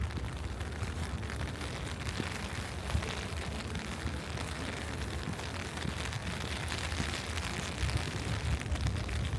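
Steady rain falling over a constant low rumble.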